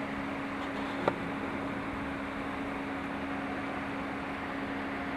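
Steady mechanical hum with a constant low drone and hiss, and a single short click about a second in.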